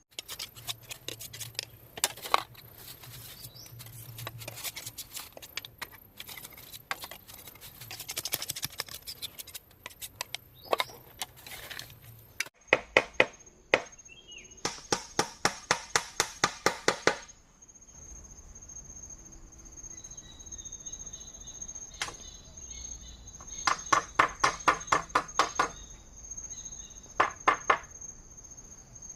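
Tool work on bamboo: runs of quick, evenly spaced strokes, about five a second, coming in bursts of a few seconds. Insects trill steadily at a high pitch behind it.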